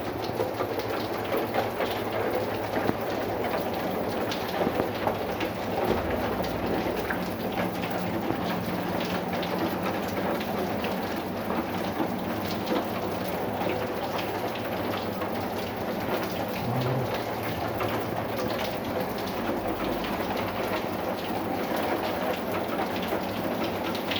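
Steady rain falling, with many separate drops ticking on a hard surface through the hiss.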